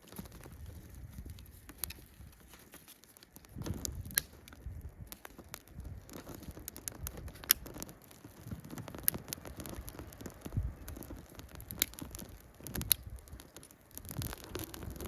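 Campfire crackling, with scattered sharp pops every second or two over a low, uneven rumble.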